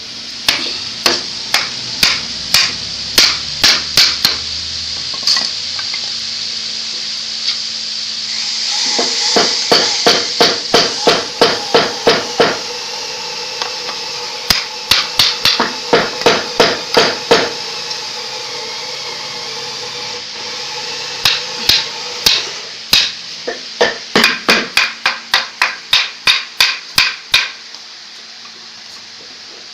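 Hammer blows in several runs of quick strikes, about two to three a second, with short pauses between the runs.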